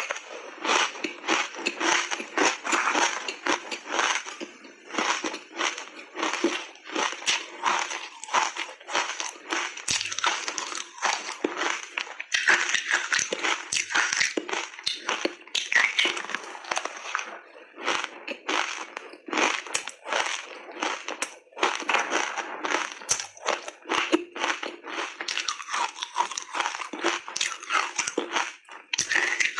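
Close-up crunching and chewing of ice coated in matcha powder, big bites breaking apart in a fast, unbroken run of crunches.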